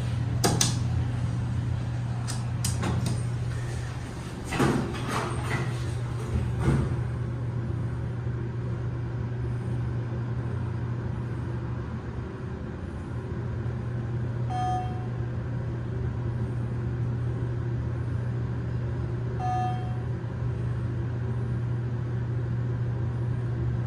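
KONE elevator with glass doors: knocks and clicks in the first few seconds as the doors work, then a steady low hum while the car runs, with two short electronic beeps about five seconds apart.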